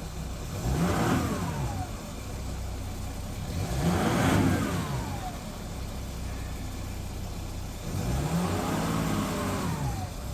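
Jeep Grand Cherokee 3.0 CRD (Mercedes OM642 V6 turbodiesel) idling and revved three times, each blip rising and falling back to idle. This engine has been rattling and showing a low-oil-pressure warning at idle, which the owner thinks could be an oil-starved turbo.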